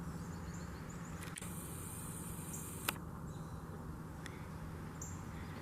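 Outdoor ambience: a steady low hum with faint, short high bird chirps, and a single sharp click about halfway through.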